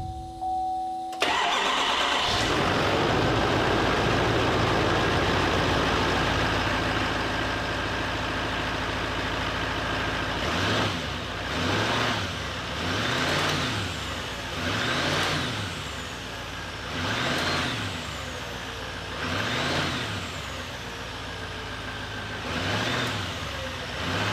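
Chevrolet pickup engine cranks and catches about a second in, runs at a steady fast idle, then is blipped about six times from about halfway through. A faint meow-like noise on the revs, traced to a faulty pipe near the air intake and a loose pipe gasket, is still slightly there but less noticeable.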